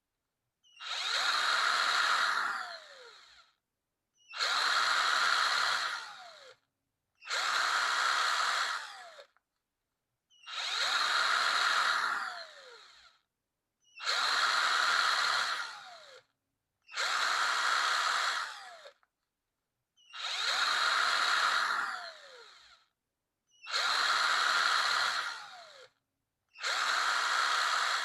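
Electric power drill triggered in short runs, about nine times: each run spins up to full speed for a couple of seconds, then the pitch falls as the motor winds down after the trigger is released, with a brief silence before the next.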